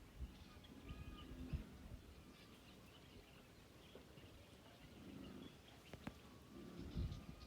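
Faint bird calls: short chirps scattered throughout, with low rumbles that grow near the end.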